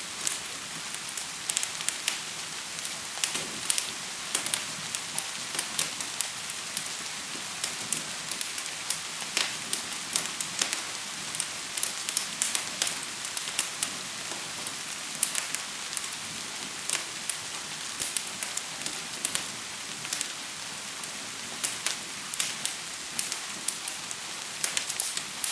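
Gentle rain falling with a steady hiss, mixed with a wood fire crackling in frequent short, sharp pops.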